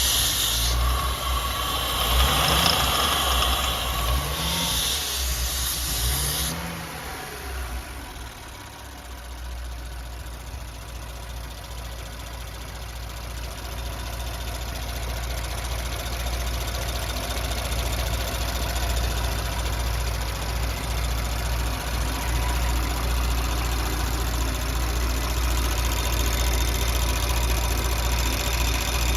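Audi B9 S4's 3.0-litre V6 running at idle, its rocker arms newly replaced. A hiss and a few rising-and-falling tones lie over it for the first six seconds. The engine sound grows gradually louder through the second half.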